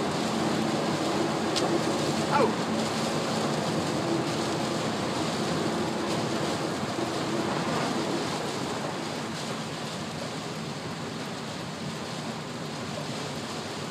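Steady rush of heavy rain and wet-road tyre noise heard inside a moving car's cabin, slowly getting quieter over the stretch.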